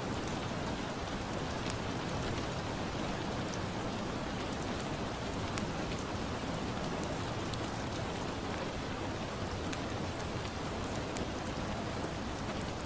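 Steady rain, with scattered faint crackles from a wood fire.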